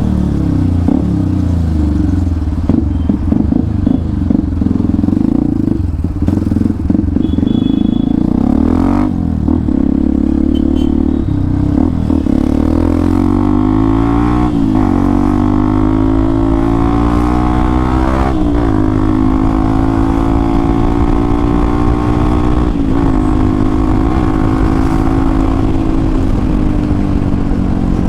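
Hero XPulse 200 4V's single-cylinder engine running through an aftermarket Akrapovic exhaust under way. The revs climb and drop sharply at gear changes about halfway through, then hold steady at cruising speed.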